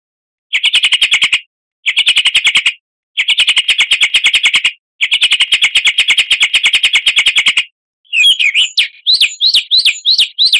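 Recorded songbird calls played as a lure for caged birds. First come four bursts of a fast, buzzy trill, about a dozen notes a second, separated by short gaps of dead silence. From about eight seconds in, a run of quick rising-and-falling chirps follows, about three a second.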